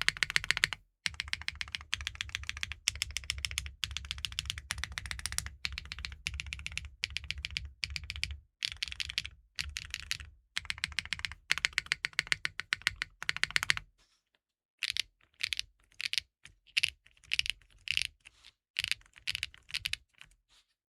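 Fast typing on a 65% custom mechanical keyboard with linear switches and GMK ABS keycaps: rapid clacks with a deep thock under them. About 14 seconds in it pauses, then continues as shorter, sparser runs of keystrokes that sound thinner, with less of the low thud.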